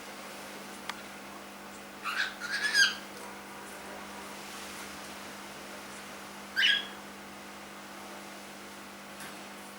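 Young cockatiel chirping: a quick run of short chirps about two seconds in, then a single call that falls in pitch a few seconds later.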